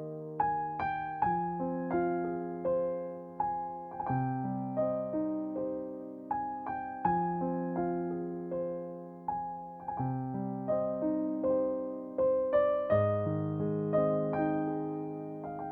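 Background piano music: a slow, gentle run of struck notes and chords, each ringing and fading.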